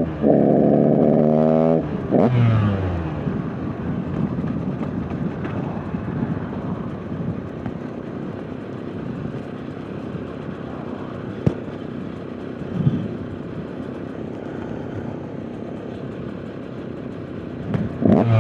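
KTM 125 EXC two-stroke dirt bike engine held at high revs, then dropping in pitch as the throttle closes, followed by a long stretch of quieter, rough low-rev running with a few knocks, and the revs climbing again near the end. The rider says the bike is not running well.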